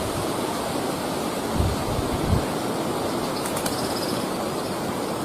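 Steady outdoor wind noise with rustling, with a few low thumps of wind buffeting the microphone about two seconds in and a couple of faint clicks later.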